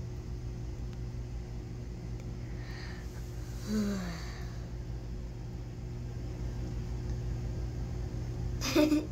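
A steady low hum, with a short, low falling note about four seconds in and a brief louder noise just before the end.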